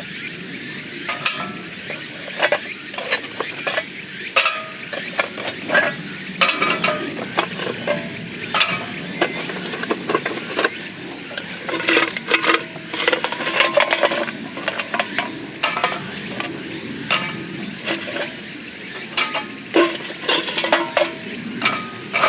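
Metal utensils and camp cookware clinking and scraping against each other in irregular clatters, some clinks leaving short ringing tones.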